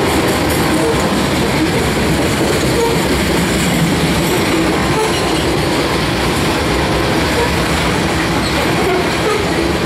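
Freight train's covered hopper cars rolling past, a steady loud rumble of steel wheels on rail.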